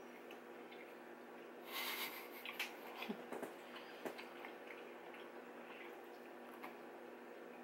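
Faint chewing and wet mouth sounds of people eating steak, with scattered clicks and a short breathy burst about two seconds in, over a steady low hum.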